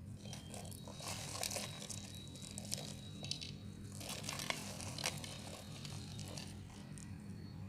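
A blade scraping and cutting into a bar of soap in irregular short strokes, with crisp little clicks as flakes break away. A steady low hum runs underneath.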